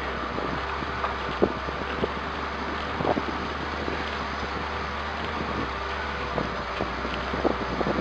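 Car engine pulling steadily at part throttle up a steep dirt track, with scattered knocks and clicks from the tyres and body over stones and bumps.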